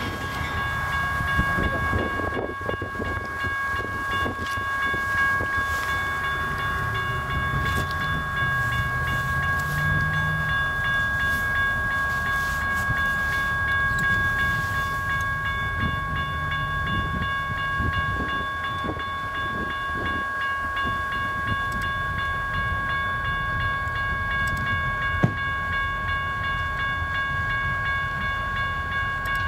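Diesel-hauled train approaching from a distance: a low engine rumble under a steady high-pitched whine, with one sharp click about 25 seconds in.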